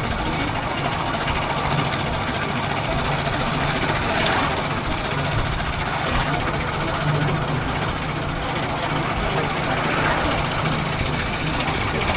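Motorcycle engine running at a steady pace while riding, a constant low hum under an even rush of noise.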